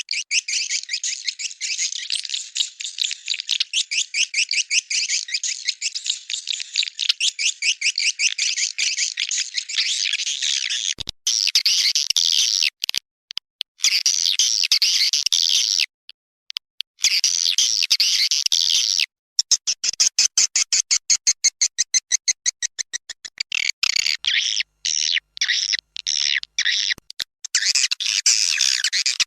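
Recorded calls of edible-nest swiftlets, the lure sound played to draw the birds into a swiftlet house. They are rapid, high-pitched chattering trills made of fast pulses, spliced into sections that cut in and out abruptly with short gaps.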